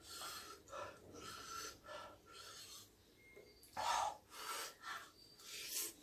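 A person taking quick, sharp breaths and sniffs, several in a row with a few louder ones in the second half: the hard breathing of someone with a mouth burning from very spicy noodles.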